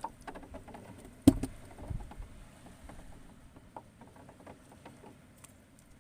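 Scattered small clicks and knocks, with one sharp knock a little over a second in and a couple of duller thuds just after.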